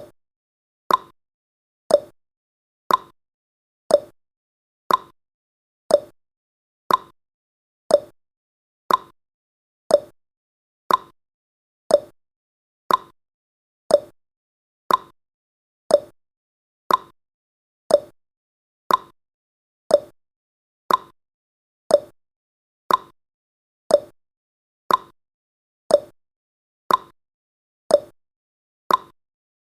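Countdown timer's tick sound effect: one short, sharp tick every second, evenly spaced with silence between.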